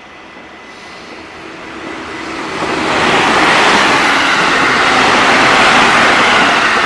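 313 series and 211 series electric multiple-unit train approaching and passing close by. The rush of wheels on rail and running noise swells over about three seconds, then holds steady and loud as the cars go by.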